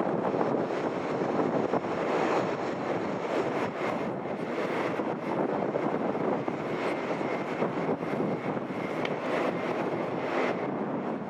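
Jet engines of a Ryanair Boeing 737-8-200 MAX, its CFM LEAP-1B turbofans, making a steady rushing noise with a faint high whine about halfway through.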